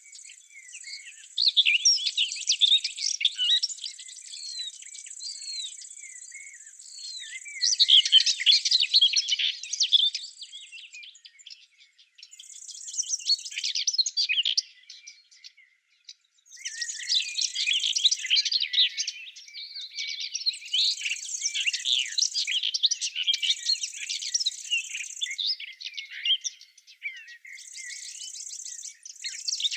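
Songbirds chirping and singing in a busy chorus, with short lulls. Over it, a steady high-pitched buzzing trill starts and stops in stretches of a few seconds.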